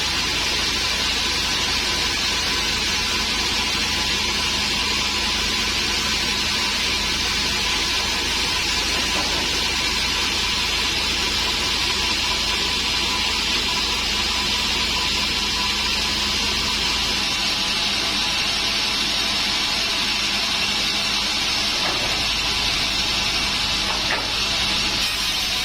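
Large sawmill band saw running steadily through dry acacia wood: a loud, even hiss with a steady whine and a low hum beneath, the hum thinning about two-thirds of the way through.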